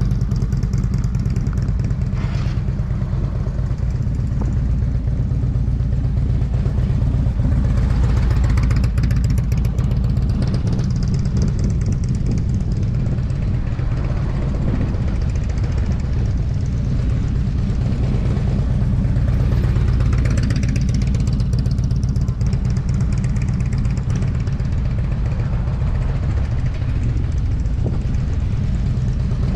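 Motorcycle engine running steadily, with a couple of swells in pitch and level about a third of the way in and again past the middle.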